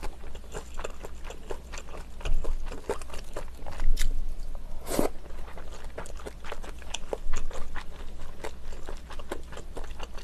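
Close-miked chewing of soft rice-cake slices: wet mouth clicks and smacks at an irregular pace, with one louder smack about halfway through.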